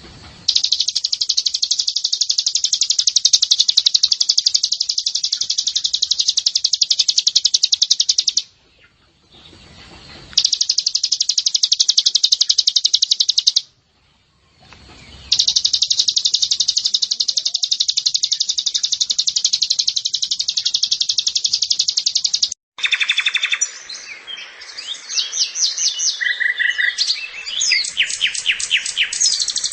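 White-eye (pleci) song: three long, rapid, high-pitched trills lasting several seconds each, separated by short pauses. After an abrupt break, a different run of varied chirps and short whistled notes follows.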